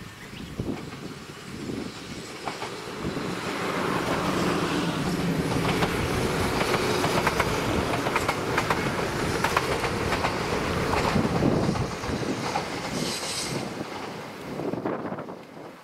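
KuMoYa 443 series two-car electric inspection train passing, its wheels clicking over the rail joints. The sound builds as it approaches, is loudest as the cars go by, then fades as it draws away.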